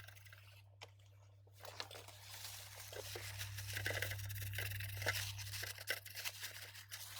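Scratchy rubbing and scrubbing on a circuit board as the freshly soldered fuse joints are cleaned with isopropyl alcohol. It starts after a second or two and goes on as a dense run of small scratches until near the end.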